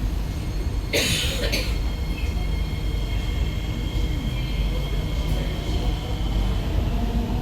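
Inside an SMRT C151B metro train: a steady low rumble from the running train, with a short loud hiss about a second in, followed by thin high tones that fade over the next few seconds.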